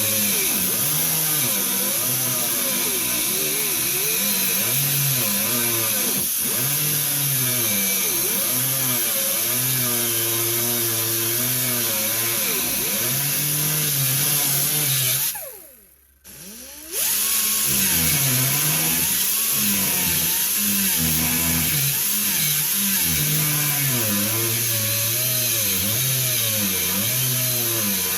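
Handheld power tool cutting through old welds in a car's sheet-metal floor, its motor pitch sagging and recovering over and over as it bites into the metal. It stops for about a second and a half a little past halfway, then starts again.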